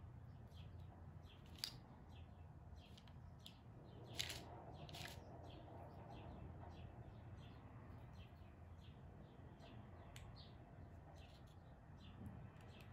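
Faint, repeated chirping of a small bird, a few chirps a second, under near silence. A few soft clicks of metal dessert spoons working sticky lokum paste stand out, the loudest about one and a half seconds and four seconds in.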